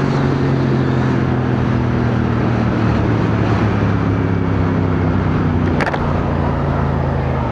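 CFMoto 450NK motorcycle engine running at a steady cruising speed under wind and road noise, with one brief click about six seconds in.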